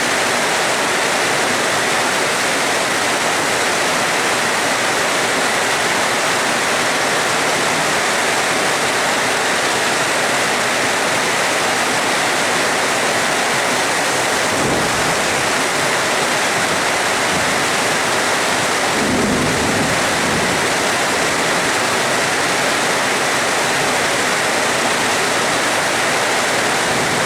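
Steady heavy rain, with two short low rumbles of thunder about halfway through.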